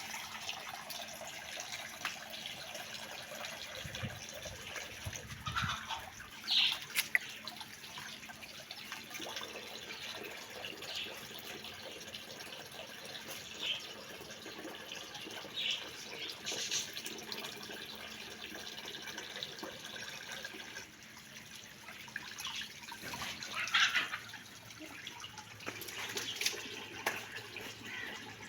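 Water running or splashing steadily, with short, high calls from the birds breaking in now and then.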